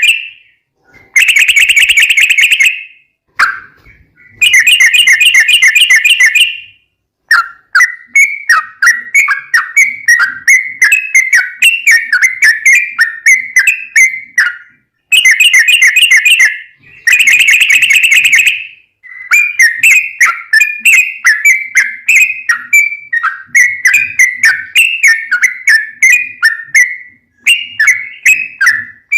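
Yellow-vented bulbul (trucukan) singing loudly. Dense trilled bursts of a second or two alternate with long runs of quick, bubbly notes.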